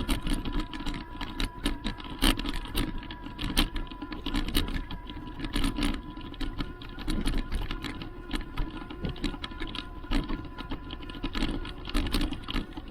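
Electric bike climbing a steep lane under battery power: a steady motor tone under rapid, irregular clicking and rattling.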